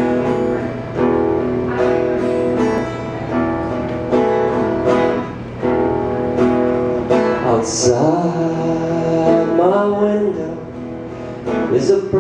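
Acoustic guitar strumming chords in a steady rhythm, with a man's singing voice joining about halfway through.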